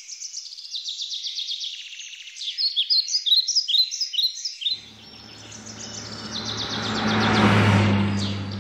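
Birdsong with many quick chirps and trills. About halfway through, a low engine hum with a rushing noise comes in, swells to its loudest near the end and begins to fade, as a vehicle drives past.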